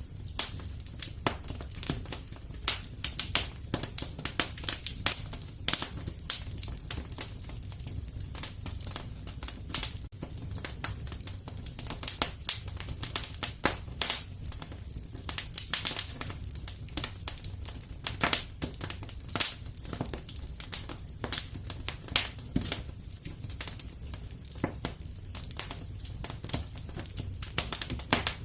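Fireplace fire crackling, with frequent irregular pops and snaps over a low steady rumble.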